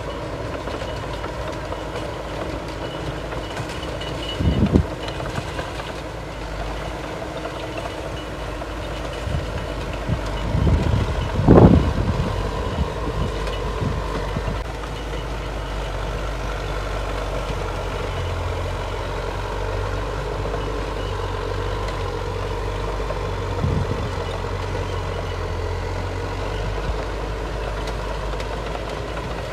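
Diesel engines of heavy earthmoving machinery (bulldozer and dump trucks) running steadily. Loud clanks or knocks come about five and twelve seconds in, and a lighter one near the end.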